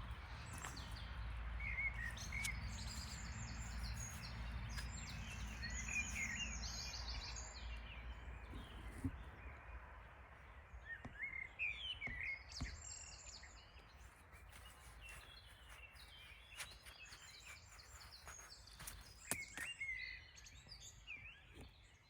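Outdoor ambience of songbirds: many short chirps and song phrases from several birds, over a low rumble that fades about a third of the way in.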